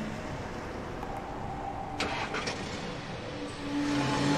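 Car engine running, with a short click about two seconds in.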